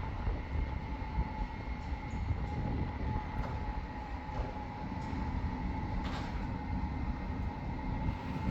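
Wind buffeting the microphone while cycling, a gusty low rumble with road and tyre noise, over a steady faint high whine.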